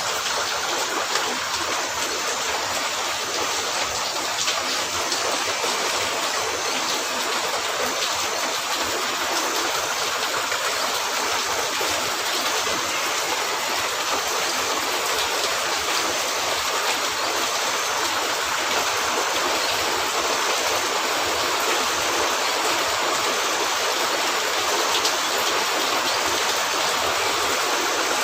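Steady rain falling on a cabin roof, an even hiss with no let-up, with a few faint pops now and then.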